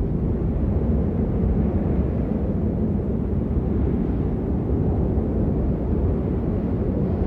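Steady, deep rain noise with no single drops standing out, used as white noise.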